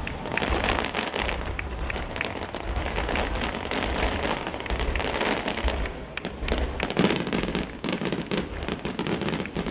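Aerial fireworks in a finale barrage: a dense, continuous crackling of many small bursts, like heavy rain, with low booms underneath every second or so.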